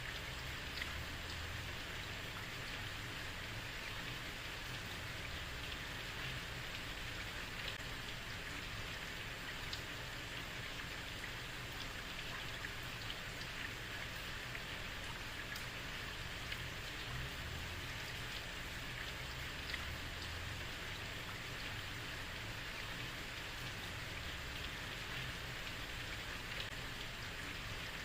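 Steady heavy rain falling on a street, an even hiss of rain with scattered drops ticking on hard surfaces.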